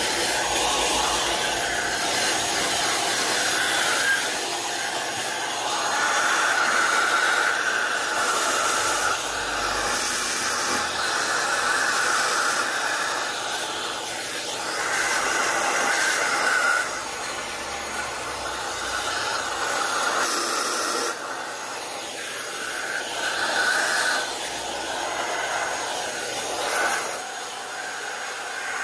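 Steady rush of air from an electric blower, such as a hair dryer, its level swelling and dipping every few seconds and dropping a little after about seventeen seconds.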